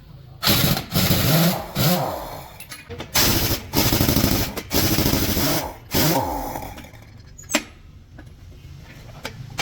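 Pneumatic impact wrench working heavy-truck wheel nuts, running in three bursts of a couple of seconds each over the first seven seconds, its motor pitch sweeping as it spins up and down.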